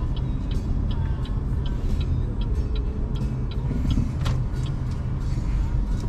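Tyre and road rumble inside the cabin of a BYD Seagull electric car, with the turn-signal indicator ticking about three times a second until about four seconds in. A single knock comes about four seconds in.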